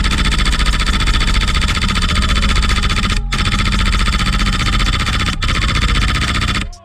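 High-pressure-air (HPA) airsoft gun firing long full-auto bursts, rapid and continuous, with brief breaks about three seconds in and again about five and a half seconds in.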